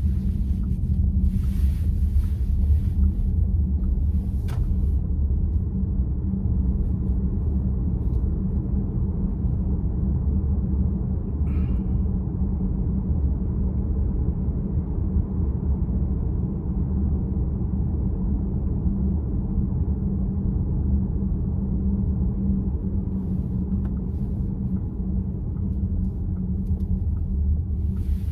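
Steady low road and tyre rumble inside the cabin of a moving VW ID.4 electric car, with a faint click about four seconds in and a short higher-pitched sound near the middle.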